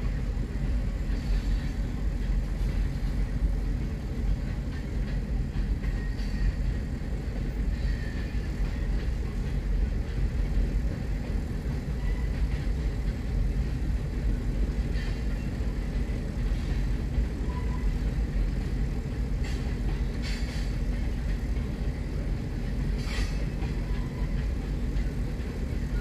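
Freight train of covered hoppers and tank cars rolling past a grade crossing, heard from inside a stopped car: a steady low rumble with a few short high clicks scattered through it.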